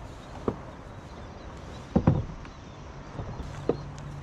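Three short knocks and clunks on a kayak's hull and gear over a steady hiss of wind and water; the middle knock is the loudest, and a low steady hum comes in near the end.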